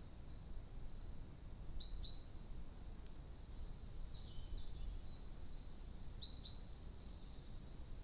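A bird calling faintly, the same short phrase of a high note followed by two quick falling notes, twice about four and a half seconds apart, over steady outdoor background noise and a faint steady high tone.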